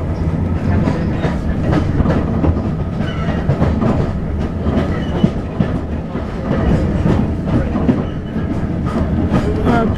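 Passenger train running along the track, heard from inside a carriage: a steady rumble with a clickety-clack of wheels over rail joints.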